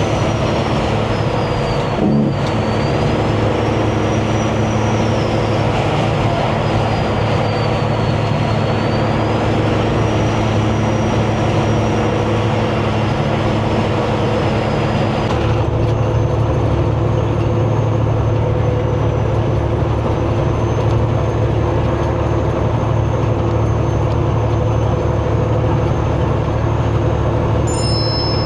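Semi-truck engine running with road noise, heard from inside the cab while driving: a steady low drone, with a faint high whine that wavers in pitch. The sound changes abruptly about halfway through.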